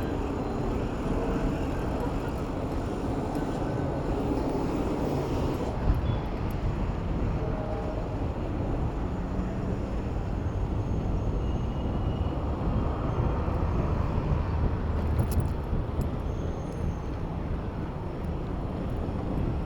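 Steady road traffic: vehicle engines and tyres in a low rumble, with a short knock about six seconds in.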